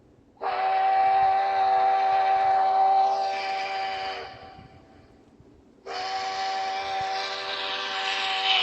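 Steam locomotive whistle blown twice, each a long chord of several steady tones with hiss over it: the first lasts about four seconds, the second starts about six seconds in.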